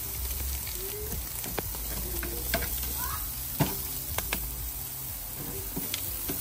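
Food sizzling as it cooks and is stirred, with several sharp clicks scattered through it.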